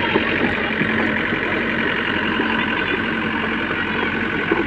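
Heavy diesel engine of a JCB 3DX backhoe loader running steadily at work, with a couple of short clunks near the start and near the end.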